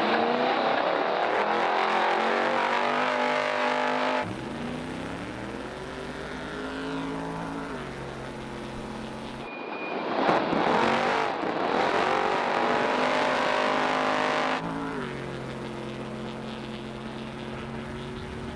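Trophy truck engine running hard at racing speed. Loud, rough stretches full of road and wind noise alternate abruptly with quieter stretches of a steady engine note. The pitch climbs as the truck accelerates about 4 s in and again about 15 s in.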